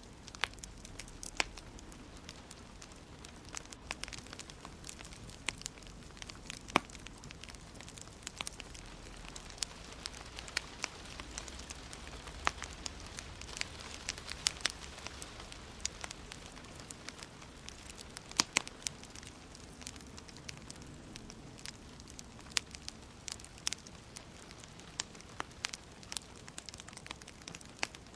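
Wood fire in a fireplace crackling, with sharp irregular pops over a steady hiss.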